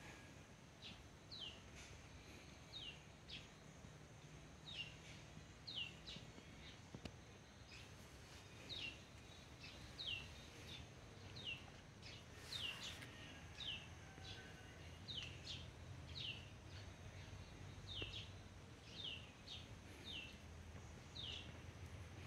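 A small bird calling steadily: short, high, down-slurred chirps, often in pairs, about one or two a second, faint over background noise. About halfway through there is a brief rustle.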